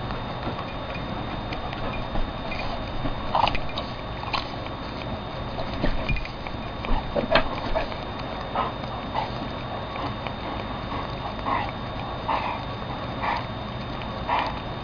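A cat licking and biting at a lollipop: irregular small wet clicks and smacks, one or two a second, over a steady background hiss.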